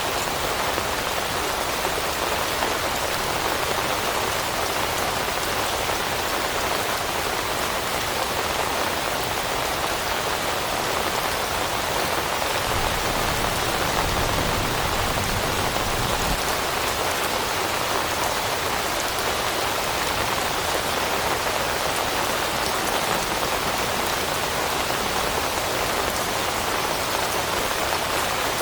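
Steady rain falling on leaves, an even hiss of many drops at a constant level. A low rumble swells briefly around the middle.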